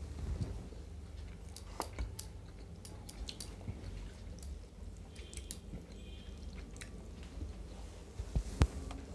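Close-up chewing and hand-eating sounds of rice and fish curry, with scattered small clicks of fingers and food against the plates and a louder click near the end.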